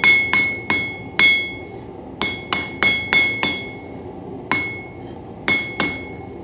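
Hand hammer striking hot coil-spring steel on an anvil, about a dozen blows in quick, uneven runs. Each blow leaves a clear ringing tone, and there is a pause of about a second near the middle. This is clean-up forging, smoothing the blade before the handle bend.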